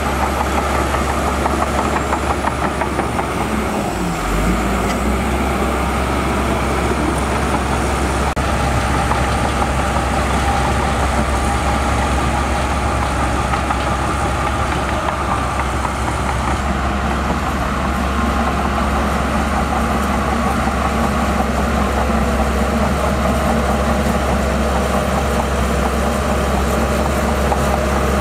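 Heavy construction machine's diesel engine running steadily, with a brief dip in pitch about four seconds in.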